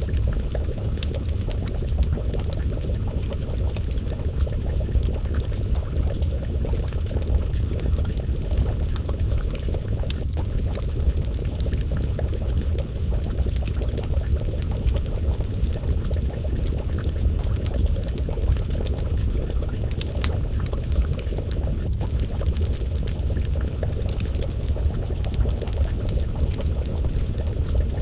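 Wood fire crackling with frequent small pops over a steady low rumble, with a pot of stew bubbling as it simmers over the flames.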